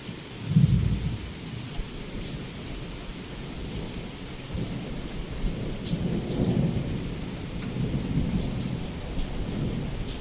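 Thunderstorm with heavy rain: a sharp clap of thunder just after the start, then thunder rolling in a long low rumble that swells and fades through the rest. Under it, a steady hiss of heavy rainfall with scattered sharper drops.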